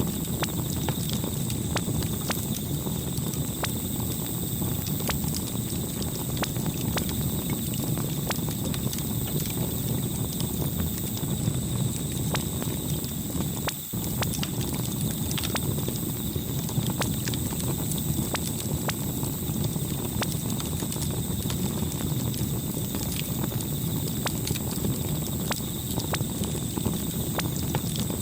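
Campfire burning with a steady low rumble and frequent irregular crackles and pops of burning wood.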